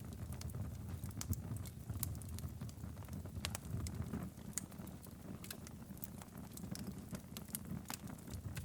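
Wood fire in a fireplace crackling and popping, with scattered irregular snaps over a low, steady rumble of the flames.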